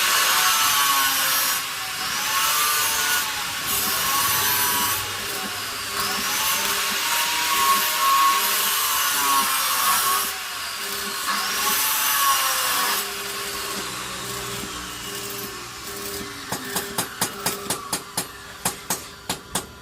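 Angle grinder working steel, its whine dipping in pitch each time it is pressed into the metal and recovering when eased off, repeated every second or two. Near the end the grinding stops and a quick run of sharp metallic taps follows.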